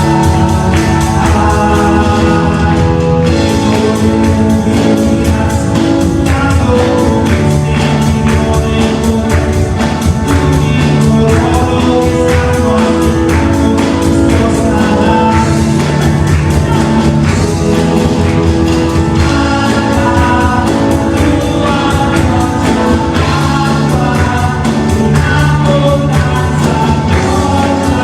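Worship band music in a gospel style, with voices singing over held chords and a steady drum beat.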